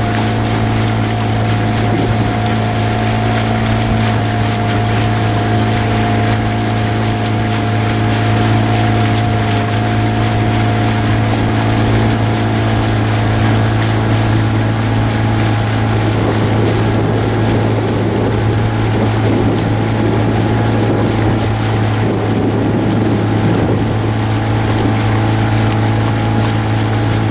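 Boat motor running steadily at a constant speed, a continuous low drone with a steady higher hum over it.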